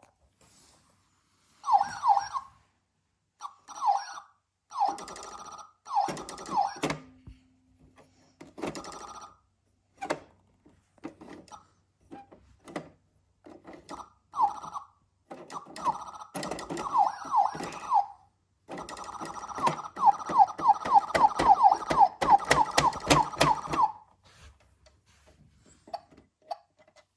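Toy fire truck's electronic siren sounding in short bursts of falling wails, then a fast yelping run of sweeps near the end, with plastic clicks and knocks between the bursts.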